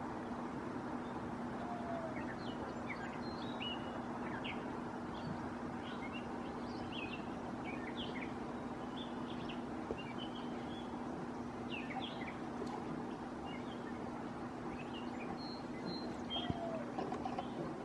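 Backyard birds chirping, many short high calls scattered throughout, over a steady low hum.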